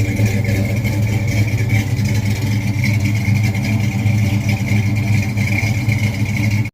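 A vehicle engine running steadily, loud and unchanging in pitch, cutting off abruptly at the end.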